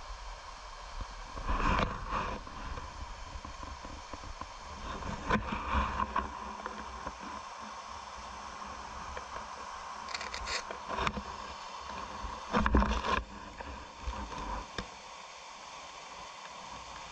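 Mountain stream water running steadily, broken four times by brief louder noises.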